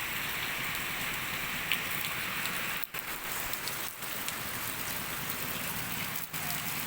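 Steady rain falling on surfaces, an even hiss with a few brief dips.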